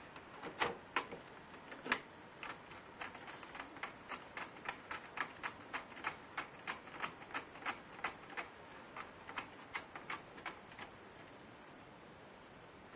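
A steady run of small sharp clicks, about three a second, that stops about two seconds before the end.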